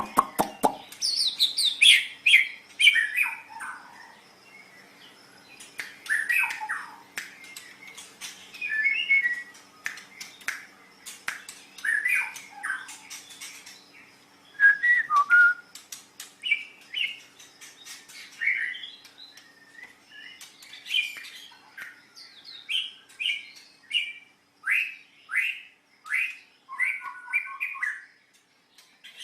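White-rumped shama singing a long, varied song: short whistled phrases with quick downward sweeps, trills and sharp clicking notes, one after another with brief gaps.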